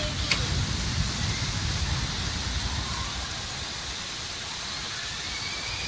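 Heavy rain pouring down in a storm: a steady hiss, with a low, uneven rumble underneath.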